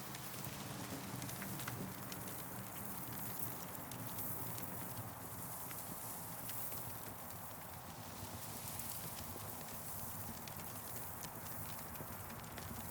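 Campfire crackling: scattered sharp pops and snaps over a steady hiss and low rumble.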